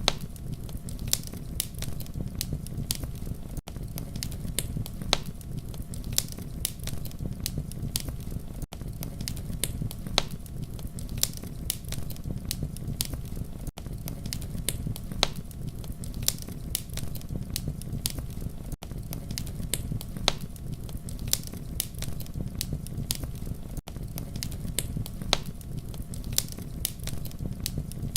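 Campfire crackling: a steady low rumble of burning with frequent sharp pops and snaps. The level dips briefly about every five seconds.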